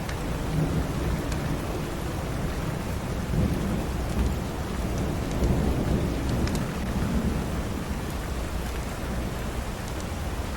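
Steady rain with a low rolling rumble of thunder that swells through the middle, and a few sharp crackles from a wood fire in a fireplace.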